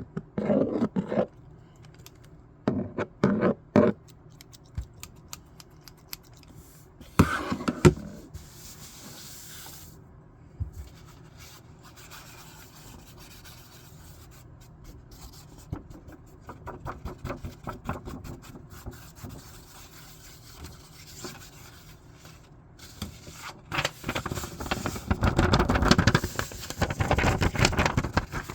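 Paper being handled, rubbing and scraping in short bursts, busiest and loudest near the end.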